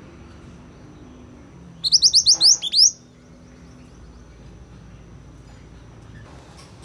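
A yellow mantenan songbird singing a quick run of about eight sharp, high chirping notes lasting about a second, about two seconds in.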